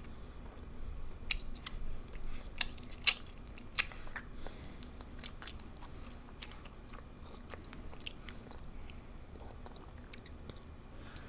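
Close-up sounds of a person chewing and biting food, with scattered sharp crunches and mouth clicks. They are most frequent in the first four seconds and thin out after.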